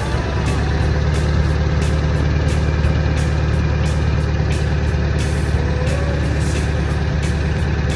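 Ford 7.3-litre Power Stroke V8 turbodiesel idling on a cold start: a steady low engine note with sharp ticks scattered through it.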